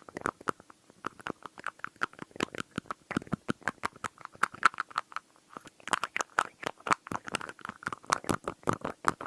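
Rapid tapping on glass and a lid, many sharp taps a second with a light ringing to each.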